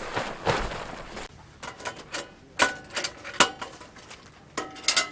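Rustling noise that cuts off about a second in, then a series of sharp clicks and light clinks of hard objects being handled, a few of them ringing briefly.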